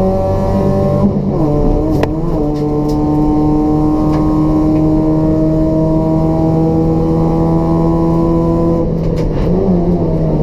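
Race-prepared Toyota Etios 1.5-litre petrol engine with free-flow exhaust, running hard under racing load. Its note drops about a second in, as at a gear change, holds nearly steady for several seconds, then dips briefly and comes back near the end.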